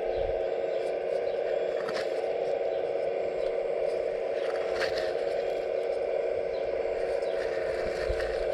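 Hydraulic pump of a radio-controlled scale model excavator running steadily, with a few short clicks and scrapes from the machine working.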